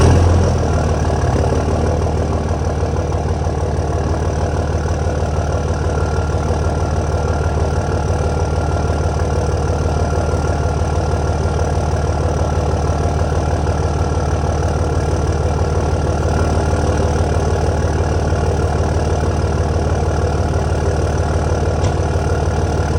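Cummins inline-six turbo diesel with a 4-inch straight-pipe exhaust, idling steadily just after a cold start. It is loudest for a moment at the start, as the revs settle from the start-up, then runs at an even idle.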